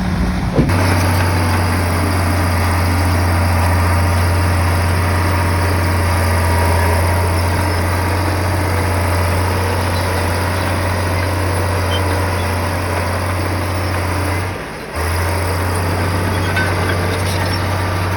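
Komatsu bulldozer's diesel engine running steadily with a constant low hum, dropping out briefly about fifteen seconds in.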